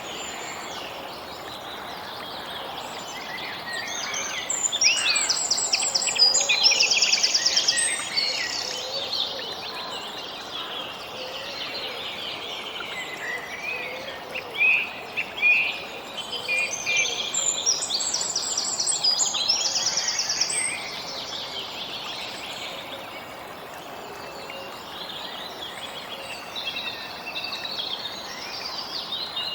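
Several birds singing and chirping over a steady background hiss, with two louder bouts of rapid trilling, about five and seventeen seconds in.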